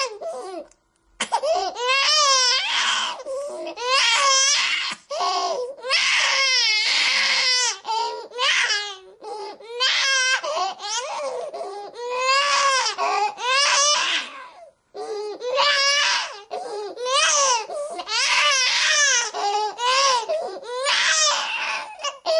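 A baby crying: repeated high, wavering wails, each rising and falling in pitch, with short pauses between them.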